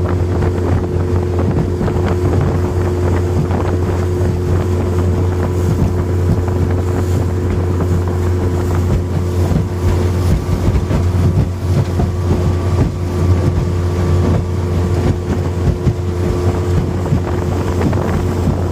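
Engine fitted with a cowl running at a steady speed, a constant low hum with a steady higher tone over it and no revving.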